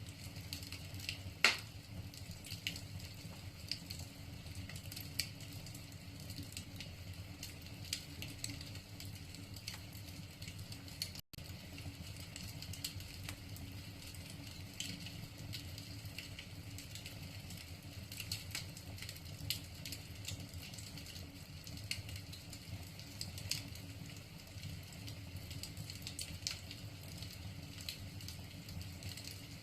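Wood fire burning in a fireplace: irregular crackles and pops from the burning logs, with one loud pop about a second and a half in, over a low steady rumble.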